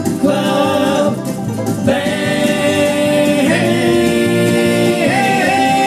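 Live bluegrass vocal group singing long-held harmony notes, with acoustic guitar and banjo accompaniment. The chord changes a few times as the song draws to its close.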